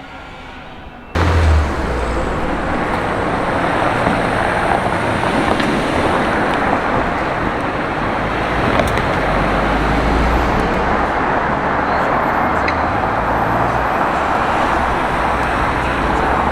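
Street traffic noise: a steady din of passing cars with a low engine rumble that swells and fades. It starts abruptly about a second in, cutting off a quieter hum.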